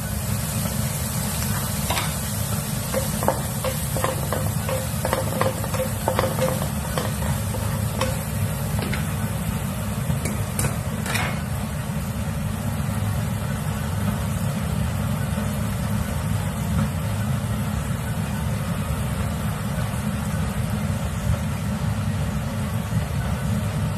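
Peas and sweet corn sizzling in a frying pan, with a run of spatula taps and scrapes during the first ten seconds or so, over a steady low hum.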